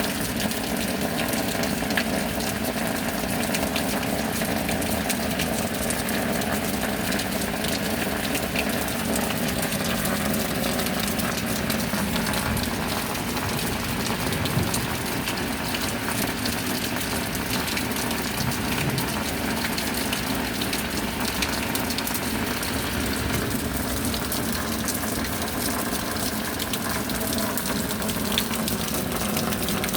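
Steady heavy rain: a constant rush of water filled with many small drop impacts, even in level throughout.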